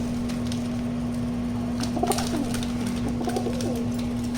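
Rock dove (domestic pigeon) cooing in short low calls, about two seconds in and again a second later, over a steady low hum.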